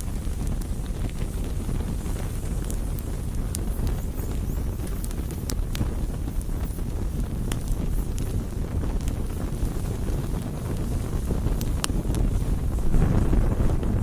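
Wood campfire burning: a low, steady rush of flame with scattered sharp crackles and pops from the burning wood, swelling louder near the end.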